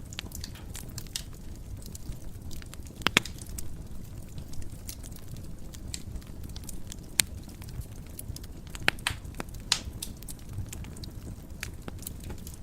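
Wood fire crackling in a fireplace: a low steady rumble of flame with irregular sharp pops and snaps, a few louder pops standing out.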